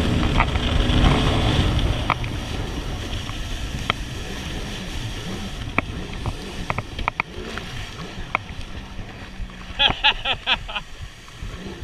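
Jet ski engine and water rush, loud at first and dropping over the first few seconds to a lower running level, with water sloshing and scattered sharp knocks.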